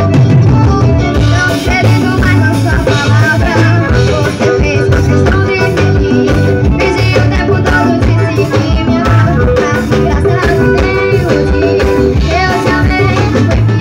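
Forró music playing loudly: a voice singing over a band with a steady drum beat.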